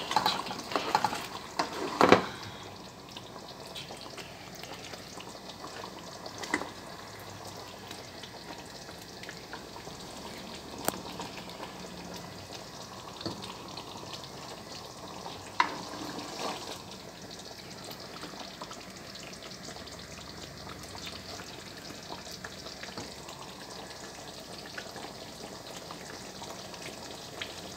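Chicken curry frying in a pan: a steady sizzle. A cluster of sharp knocks comes in the first two seconds, the loudest about two seconds in, and a few single clicks follow later.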